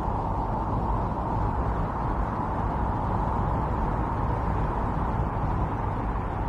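Strong, steady wind of a snowstorm blowing without a break.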